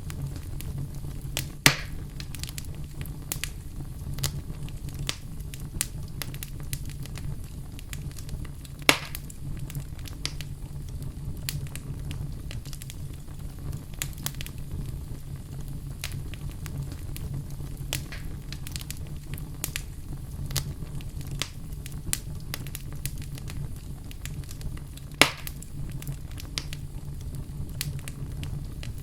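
Wood fire crackling, with a steady low rumble and frequent small sharp crackles. Three louder pops stand out, at about two seconds in, near the middle, and near the end.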